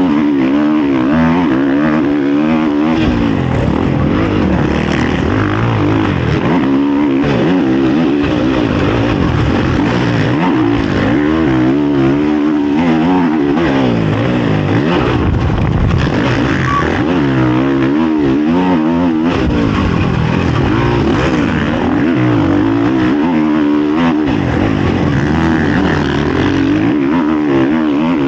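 Honda CRF450 motocross bike's single-cylinder four-stroke engine, heard close up from the rider's onboard camera at full race pace. The revs rise and fall again and again as he accelerates, shifts and rolls off for jumps and turns, over rushing wind noise.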